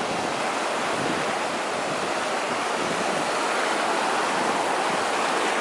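Sea waves washing in shallow water along the shore, a steady rushing hiss.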